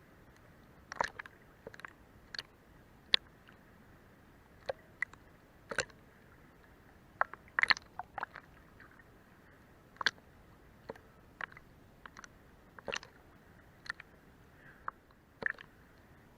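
Sea water lapping under a boat's hull: irregular short, sharp slaps and clicks, some in quick clusters, over a faint steady hiss.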